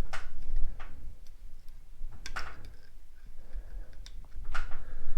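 Cast-iron barrel lap coated in lapping compound being worked in and out of a Harley-Davidson K-model main bearing race, giving a few short scraping clicks a second or two apart as it grabs in the bore.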